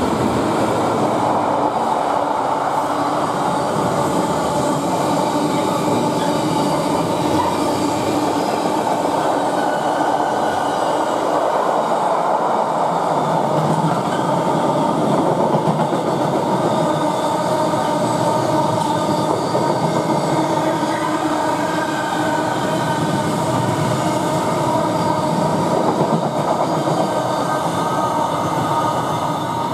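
A Freightliner Class 66 diesel freight locomotive passes at speed, and a long rake of mostly empty container flat wagons rumbles and clatters past behind it, with steady ringing tones over the rumble. The sound begins to fade near the end as the last wagons go by.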